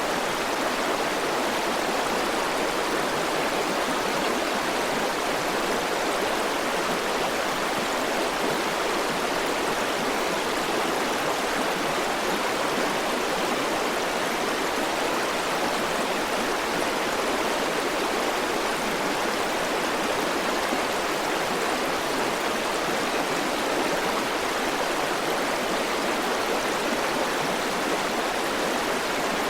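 River water flowing and rushing over stones, a steady, even rushing with little low rumble.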